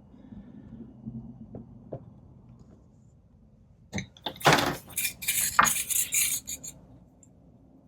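Small metal parts clinking and rattling for about three seconds, starting about four seconds in, over a faint low hum.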